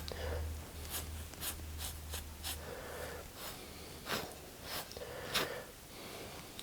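Faint, irregular light scratches and clicks of hand work on a glazed ceramic cup as copper oxide is applied, about a dozen small strokes, with a low hum fading out about halfway through.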